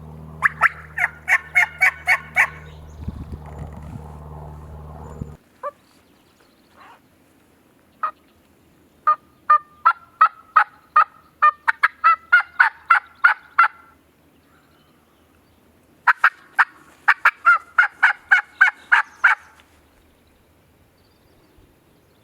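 Three runs of turkey yelps: sharp, evenly spaced notes about four or five a second, the longest run lasting several seconds in the middle. A steady low hum sits under the first five seconds and cuts off suddenly.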